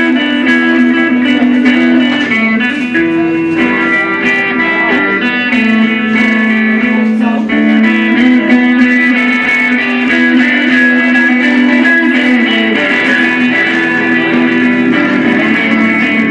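A guitar played in a live jam, with notes held and changing throughout.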